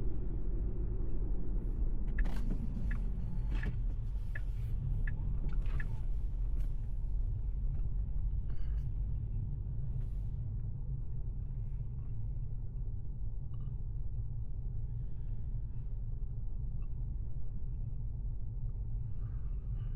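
Road and tyre rumble inside a moving Tesla Model 3, a steady low rumble with no engine note. A few brief sharp clicks come in the first several seconds.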